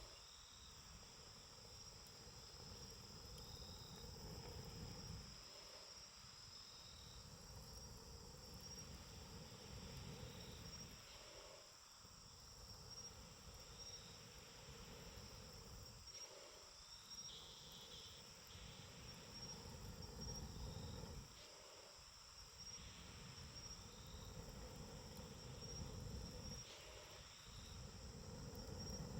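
Insects chirping steadily in high-pitched trills, over a faint low rumble that swells and fades every few seconds.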